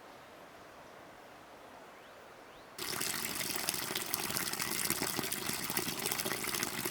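Quiet background, then nearly three seconds in a sudden loud rush of water splashing and gushing that keeps on steadily.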